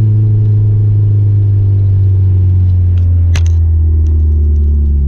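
Chrysler Conquest's turbocharged G54B four-cylinder engine running while the car is driven, its note slowly dropping in pitch. A sharp click about three seconds in.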